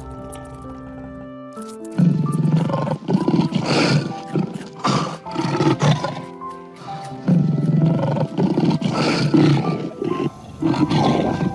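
Lion roaring in repeated rough pulses, starting about two seconds in and coming in two long bouts, over background music.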